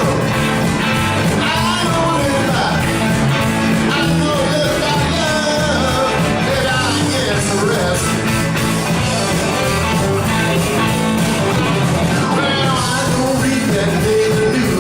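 Live rock band playing a rock and roll song, with singing over the band.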